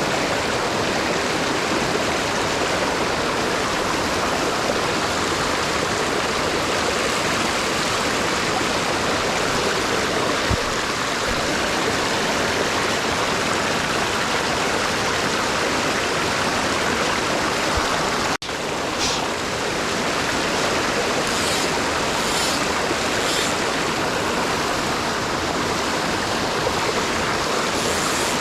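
Small mountain stream rushing over rocks: a steady, dense water rush. It cuts out for an instant about two-thirds of the way through, and a few faint ticks follow.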